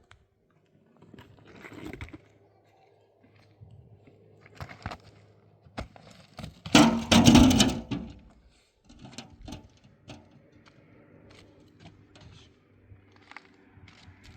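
Scattered knocks and clicks of objects being handled, with a loud clattering crash lasting about a second near the middle.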